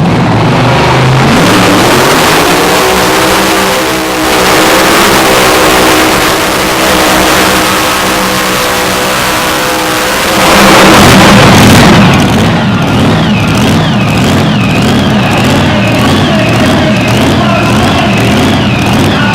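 Mini unlimited pulling tractor engine at full throttle on a pull: the pitch climbs over the first few seconds and then holds high and steady, with a loudest burst about eleven seconds in. After that it drops back under a wavering high tone that rises and falls a little more than once a second.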